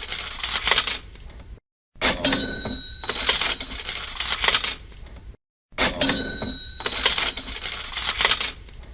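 Cash register sound effect played on a loop: a bell ding over a jingle of coins, fading out, repeated about every four seconds with a short silent gap between repeats. The tail of one repeat, then two full ones.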